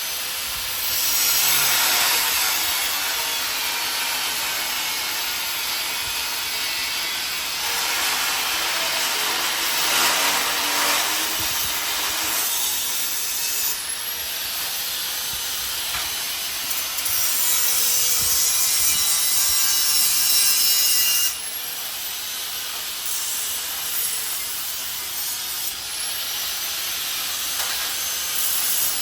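Metalwork on a steel smoker: a continuous harsh rasping noise from the fabrication tools, changing in loudness and pitch in sections, with clear shifts about 14 and 21 seconds in.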